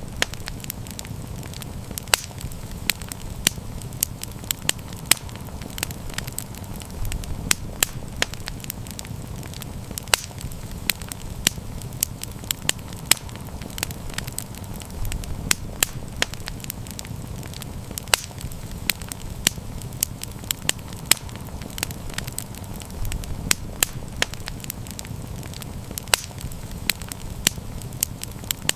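Wood campfire crackling, with frequent sharp pops and snaps, several a second, over a steady low rumble.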